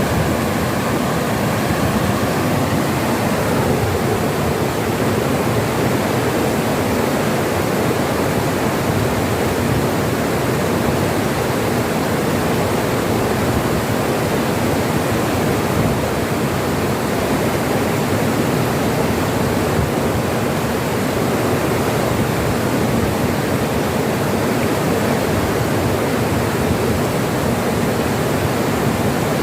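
Flowing water rushing steadily over river stones, an even unbroken wash of sound.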